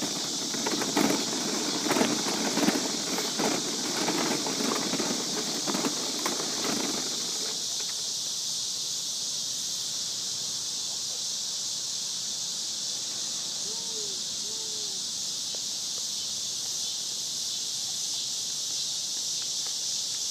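Outdoor night ambience: a steady, high-pitched insect chorus throughout. For the first seven seconds or so there is rustling and footsteps, and two faint short calls come about fourteen seconds in.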